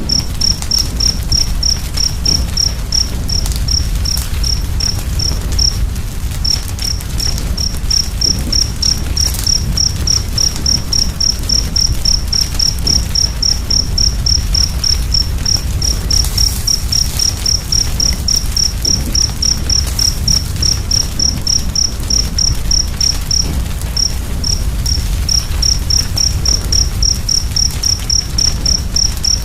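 Wood fire crackling and rumbling, with a cricket chirping steadily at about three chirps a second, pausing briefly twice.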